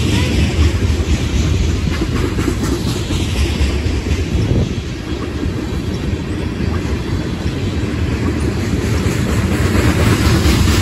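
A train rolling past on the rails, a steady low rumble of wheels and cars.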